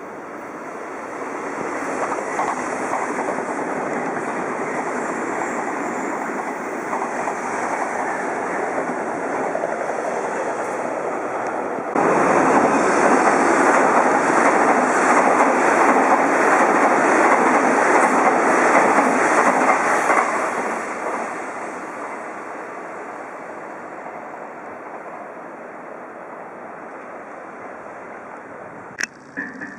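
Odakyu Line electric trains running past on the quadruple track: a steady rumble of wheels on rail builds up, turns abruptly much louder about halfway through as a train passes close, then fades away. A short sharp click comes near the end.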